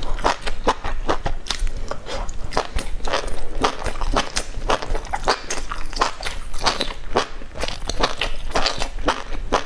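Close-up chewing and biting of skewered meat rolls stuffed with enoki mushrooms: a dense, steady run of crunching mouth clicks.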